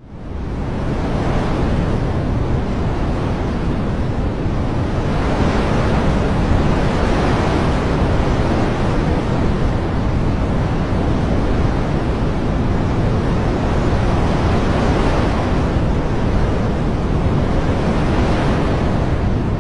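Steady rushing nature ambience of water and wind, swelling and easing every few seconds. It drops out for an instant at the very start and fades back in within about a second.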